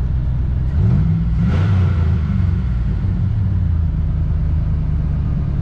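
Car engine idling steadily just after start-up, its number 2 knock sensor freshly replaced. About a second in it is blipped briefly higher in pitch, then settles back to idle.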